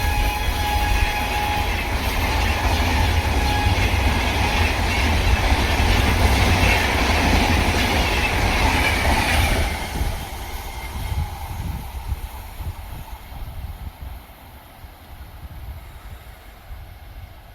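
A train passing at speed, a loud rumble with wheel-on-rail noise. The sound drops off sharply about ten seconds in and then fades as the train moves away.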